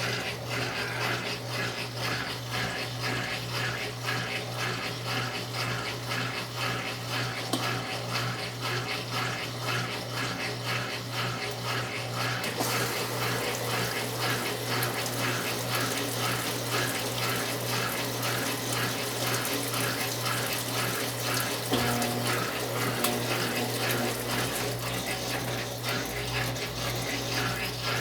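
Brastemp 9 kg washing machine with water running steadily into or through the drum, over a steady low hum and a fast, even pulsing.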